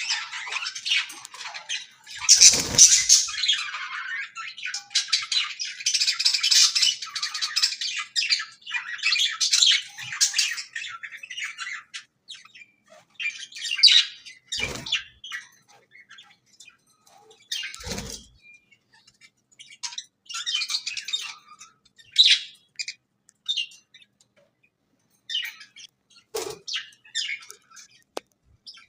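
Budgerigar chattering and chirping in long, busy bursts that thin out into shorter chirps in the second half, with a few dull knocks.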